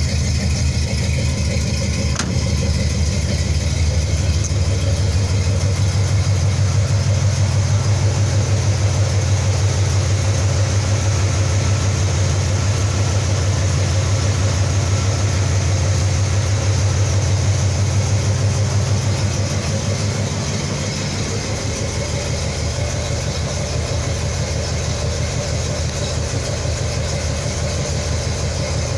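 Hot Buick 350 V8 idling steadily through freshly installed headers and exhaust, with a pulsing exhaust note. It eases off slightly about twenty seconds in.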